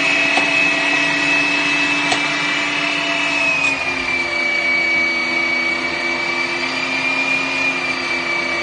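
Electric meat grinder running steadily, a motor whine whose pitch drops a little about three and a half seconds in, then holds.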